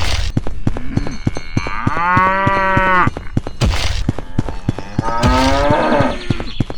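Cow mooing twice: a long call about one and a half seconds in, and a shorter, rising call about five seconds in. A steady run of sharp clicks and knocks goes on underneath.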